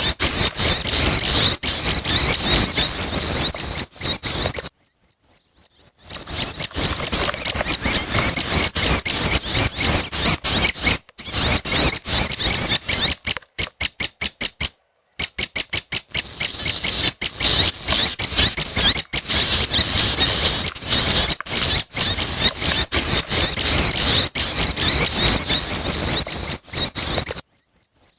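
Dense, rapid, high-pitched chirping calls of young prenjak (prinia) chicks. The calling breaks off briefly about five seconds in, stutters in short chopped bursts around the middle, and stops again near the end.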